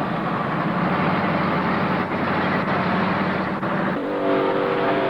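Mud truck engine running with a dense, noisy sound. About four seconds in, a steadier pitched engine note comes in.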